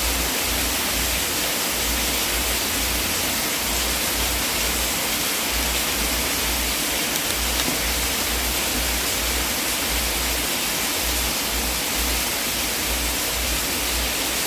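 Wood fire burning in a fireplace: a steady hiss and rush of flame, with a couple of faint crackles about halfway through.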